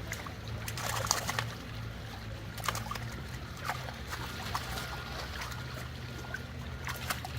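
Shallow stream water splashing and trickling in scattered small splashes, with a steady low hum underneath.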